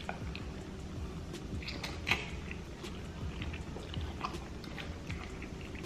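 Close-miked eating sounds: a person chewing and biting food, with scattered short wet mouth clicks and crackles over a low steady hum.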